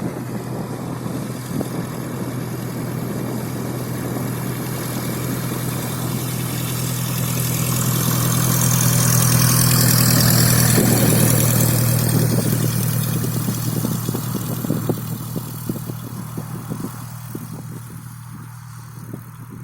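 Cessna 172's four-cylinder Lycoming O-320 engine and propeller running with a steady drone, growing louder to a peak about halfway through and then fading away near the end.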